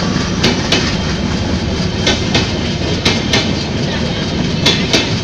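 Bangladesh Railway intercity passenger coaches rolling past: a steady rumble of wheels on rail, with sharp clicks in pairs, about one pair every second and a half, as each bogie's wheelsets cross a rail joint.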